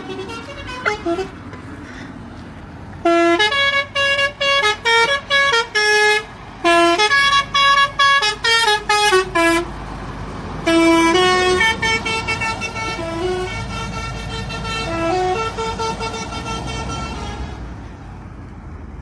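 Vehicle horn honking in many quick toots, then in longer blasts, its pitch stepping up and down like a tune, over road noise.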